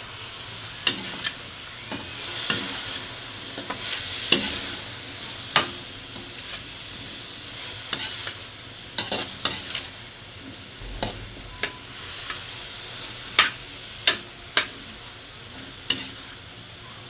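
Pork pieces sizzling in oil in a steel wok while being stirred: a steady frying hiss, with a utensil clacking and scraping against the pan over a dozen times at irregular intervals.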